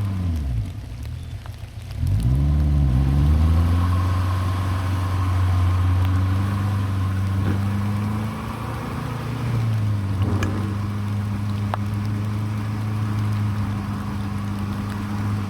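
1997 Jeep Cherokee XJ's VM Motori 2.5 turbo diesel engine working on a trail: the revs fall and the engine goes quieter just after the start, pick up again about two seconds in, and then the engine pulls steadily at moderate revs.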